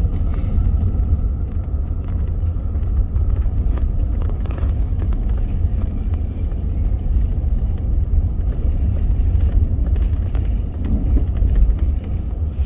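Truck driving in four-wheel drive up a rough hill road: a steady low rumble of engine and tyres, with a few scattered knocks.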